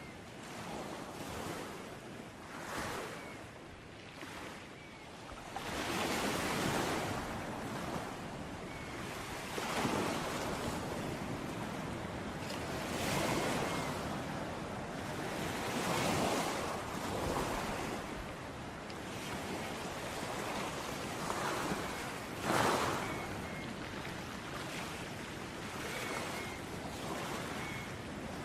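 Ocean surf: waves breaking and washing up a beach, swelling into a louder rush every three or four seconds over a steady hiss of water.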